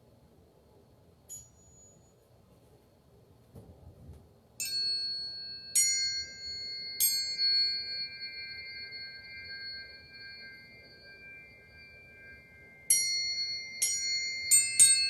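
Struck metal chimes ringing out pure, bell-like tones, one note at a time: three strikes about a second apart, each left to ring on for several seconds, then a quicker run of four strikes near the end, the notes overlapping as they sustain.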